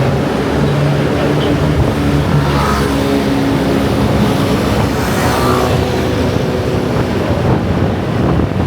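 Heavy traffic of motor scooters streaming past, many small engines running at once in a dense, steady din, with two swells as nearer ones pass about three and five and a half seconds in.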